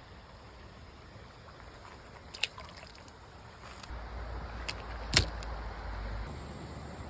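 Quiet outdoor background with a few sharp clicks, the loudest about five seconds in, and a low rumble starting about four seconds in.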